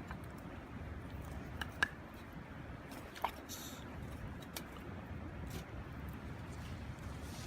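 Wood fire burning in a small wood stove, crackling with a few sharp pops, the loudest about two and three seconds in, and a brief hiss just after, over a steady low rush.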